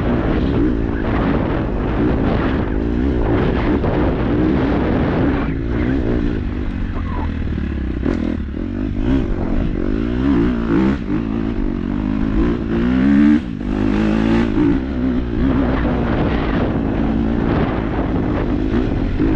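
KTM 250 dirt bike engine revving up and down, the pitch rising and falling constantly as the bike is ridden over rough trail, with scattered knocks and rattles.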